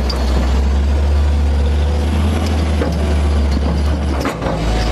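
Heavy machine's diesel engine running steadily with a deep low drone. The drone dips briefly a little past four seconds in.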